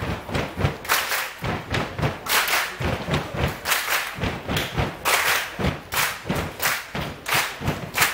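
A group beating out a rhythm of thumps and claps, about two to three strokes a second, as part of a group cheer.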